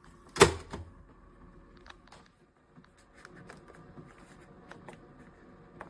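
Plastic parts of a single-serve coffee maker being handled: one loud sharp click about half a second in, then scattered faint clicks and taps.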